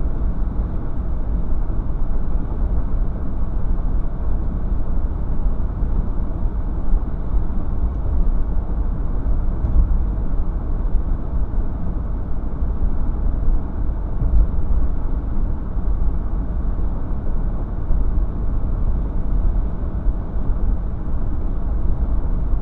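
Steady, low vehicle rumble, strongest in the deep bass and even throughout, with no distinct knocks or horn.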